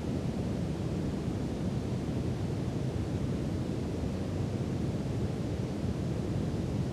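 Steady brown noise: a deep, even rush with little hiss on top, unchanging throughout.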